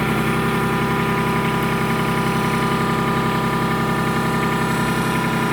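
Kubota tractor's diesel engine idling steadily at an even pitch.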